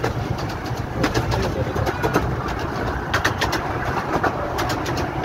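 Romney, Hythe and Dymchurch Railway 15-inch-gauge miniature train running along the track, with a steady low rumble and irregular clicks and rattles.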